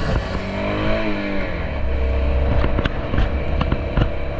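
Honda XR650L's single-cylinder four-stroke engine under way, revving up and easing back down about a second in. A few sharp knocks come in the second half.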